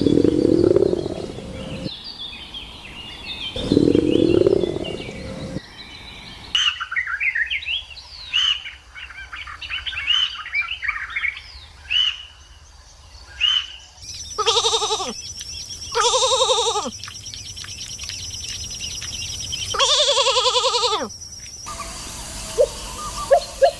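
A string of separate animal sounds cut together: after two short bursts of noise, a bird chirps rapidly for several seconds, followed by three long, wavering bleats. A plucked musical rhythm starts near the end.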